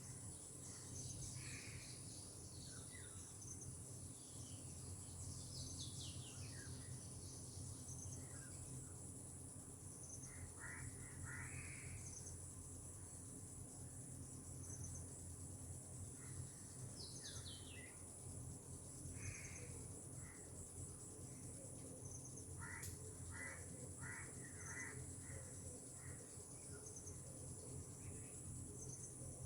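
Faint tropical outdoor ambience: a steady high-pitched insect drone throughout, with scattered bird calls. These include downward-sliding whistles and a quick run of five or six short notes near the end.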